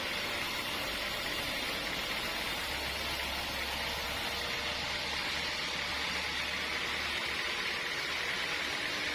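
Sawmill machinery running with a steady, even hiss-like noise and a faint low hum underneath.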